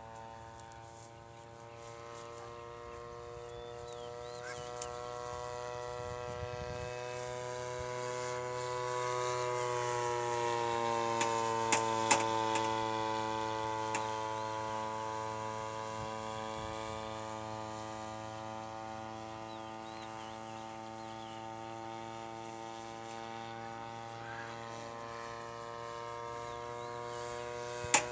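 Grass-cutter engine of an RC model airplane droning in flight; it grows louder, its pitch drops as it passes at about 12 seconds, then it drones on steadily and somewhat fainter. A few sharp clicks around the pass and near the end.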